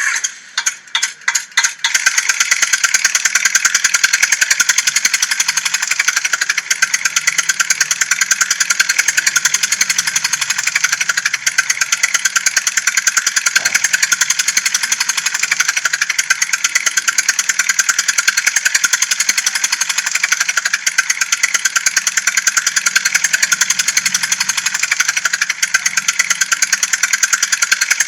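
Tractor engine sound, starting with a few separate chugs and then running steadily with a fast, even chugging that is thin and high-pitched.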